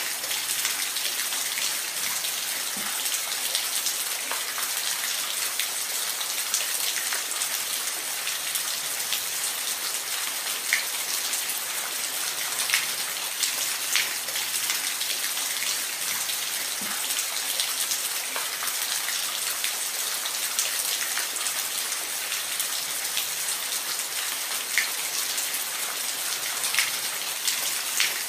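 Steady rain falling, with scattered louder drips and drops ticking on a surface.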